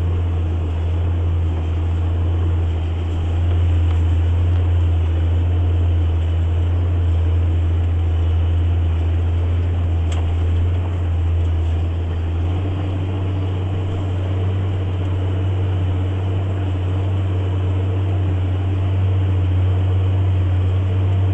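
JCB Fastrac 8250 tractor engine running steadily while ploughing, heard from inside the cab as a constant low drone. About twelve seconds in the engine note shifts slightly and a steady higher hum joins it.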